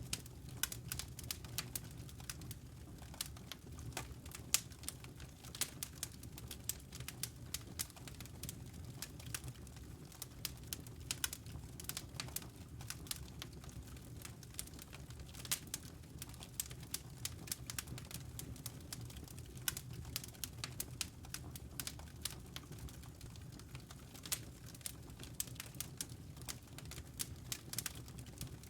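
Wood fire burning in a fireplace: irregular sharp crackles and pops from the burning logs over a soft low rumble of the flames.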